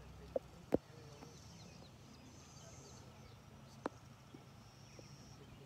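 Quiet outdoor ambience with faint, high bird chirps and short trills. A few sharp clicks break it: two close together within the first second and one just before four seconds in.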